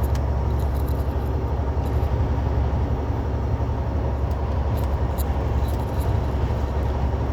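Semi truck's diesel engine running steadily at highway speed, heard inside the cab as an even low drone.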